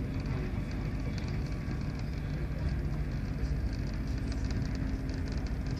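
Passenger train running at speed, heard from inside the carriage: a steady low rumble of the wheels on the rails, with a faint steady hum and light high ticking.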